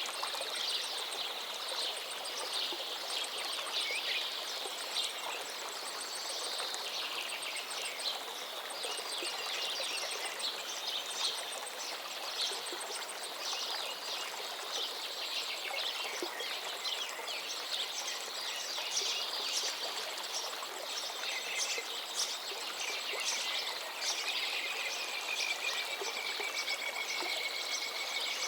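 A river flowing steadily, with many small birds chirping and calling over it. Near the end, one longer, drawn-out call stands out.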